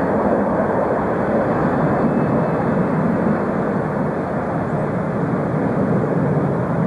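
Jet airliner engines heard across the airfield: a loud, steady rush of engine noise with no break.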